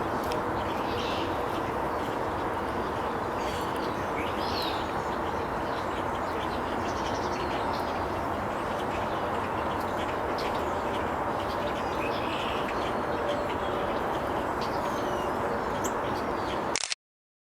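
Outdoor ambience: a steady background rush with several faint, short bird chirps scattered through it.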